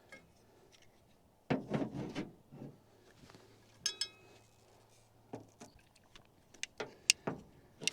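Light metal-on-metal clicks and knocks of tools being handled around an engine bay, with one clink about four seconds in that rings briefly like struck metal.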